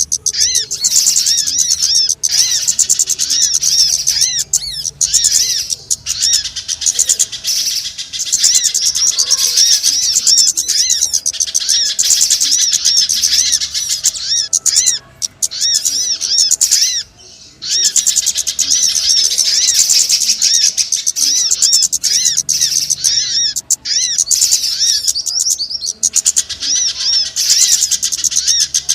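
Bird-lure recording of small songbirds chirping: a dense, fast, high-pitched run of chirps and trills, almost unbroken, with a couple of brief pauses about halfway through. It is meant to draw small birds in for trapping.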